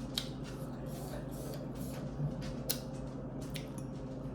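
Quiet eating sounds: a few short faint clicks and soft squishy noises from chewing and handling food, over a steady low hum.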